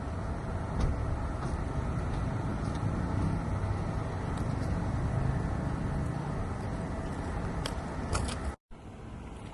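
A car running, a steady engine and road rumble with a few light clicks. The sound drops out for an instant near the end.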